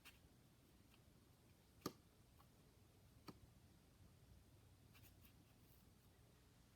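Die-cast toy cars being handled in near silence: one sharp click about two seconds in, a softer click over a second later, and faint ticks near the end.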